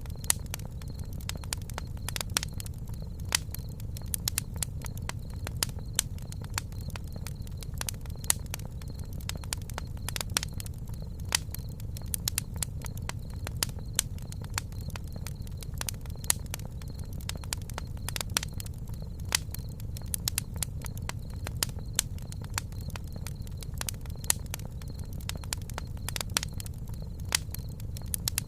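Campfire burning: wood crackling with frequent irregular pops over a low steady rumble.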